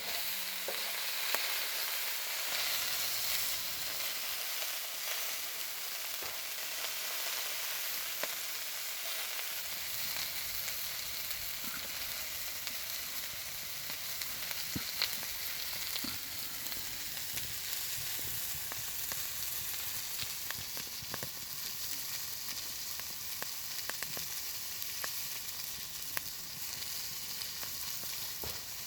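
Steak and vegetables sizzling on a Petromax griddle: a steady frying hiss dotted with small spitting pops.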